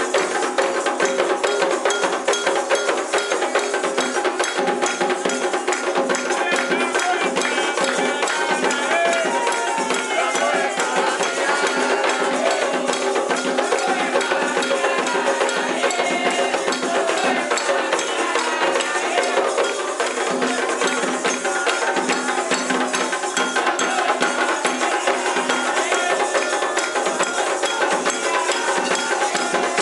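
Candomblé ritual music: fast, steady hand percussion with shaken and struck rattling sounds, and voices singing over it.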